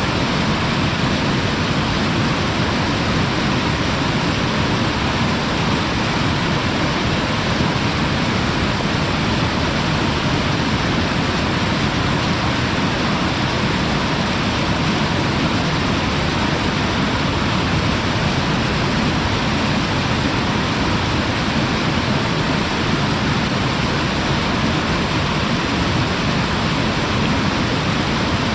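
Waterfall pouring over its lip: a steady, unbroken rush of falling water that does not change in level.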